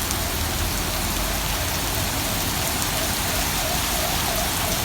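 Heavy rain falling steadily on surfaces, a dense even hiss.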